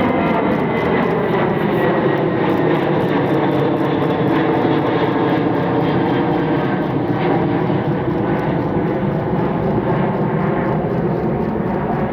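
Jet airliner's engines running loud and steady, with several whining tones falling slowly in pitch as the aircraft goes past.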